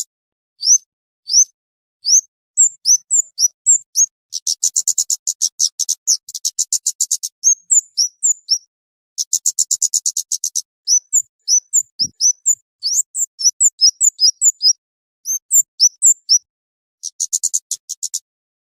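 Flowerpecker (cabe-cabean) lure call: high, sharp chirping notes that sweep upward, broken by three rapid buzzy trills.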